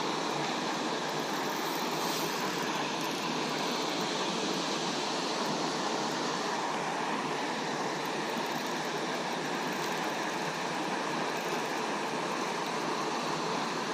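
Steady rush of water pouring over a small spillway.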